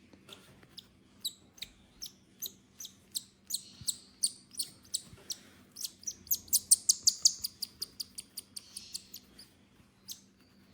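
Hand-fed zebra finch nestling giving short, high begging chirps while it is fed. The chirps quicken into a fast run a little past the middle.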